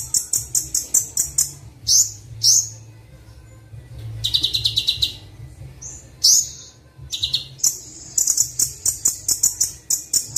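Kolibri Wulung sunbird song from a bird-training recording: rapid runs of sharp, high chirps, broken by short pauses, with a fast buzzy trill about four seconds in. A faint steady low hum runs underneath.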